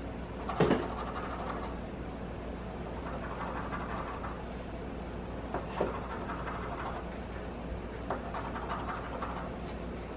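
Scratching the coating off an instant scratch-off lottery ticket: spells of quick rasping strokes, broken by a few sharp clicks, the loudest about half a second in.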